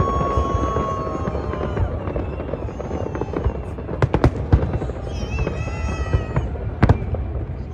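Fireworks display going off: sharp bangs about four seconds in and another near the end, over steady noise and held whistling tones.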